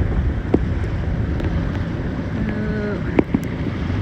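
Wind buffeting the microphone over water noise aboard a small boat, with two sharp knocks, one about half a second in and one about three seconds in.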